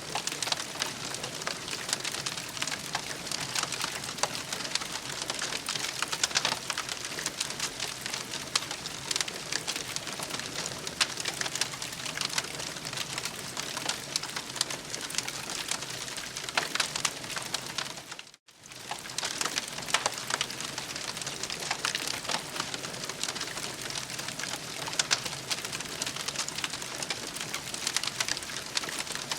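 Campfire crackling steadily, with a dense patter of small pops and snaps over a soft hiss. The sound cuts out for an instant about eighteen seconds in.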